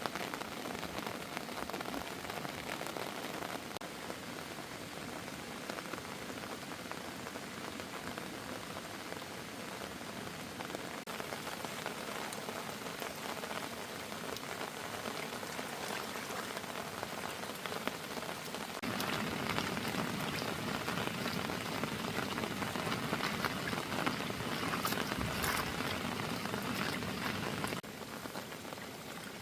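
Heavy rain falling steadily on surfaces, a dense hiss with patter, growing louder for about nine seconds from past the middle.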